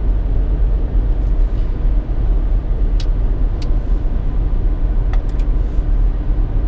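Steady low rumble of a car's engine and tyres heard from inside the cabin while driving, with a few light sharp ticks about halfway through and again a little later.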